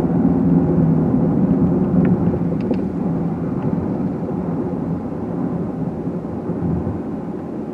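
A car being driven, heard from inside: steady engine and tyre hum that gradually gets quieter, with a few faint ticks about two to three seconds in.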